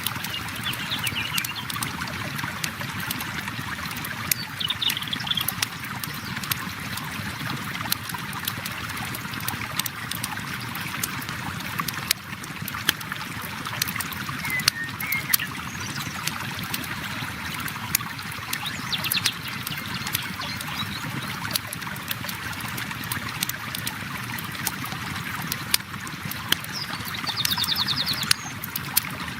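Steady flowing river water under a crackling campfire, with frequent sharp pops and snaps of burning wood. A few brief high bird calls come and go.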